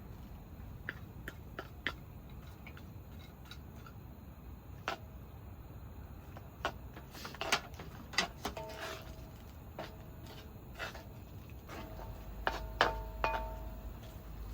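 Scattered light clicks and taps, with a few short clinks in the second half that ring briefly, like small hard objects being handled and set down.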